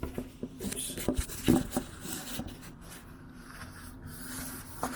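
Cloth towel rubbing back and forth over a wooden tabletop, wiping in freshly applied furniture scratch-marker stain, in irregular strokes with a few light knocks about a second and a half in.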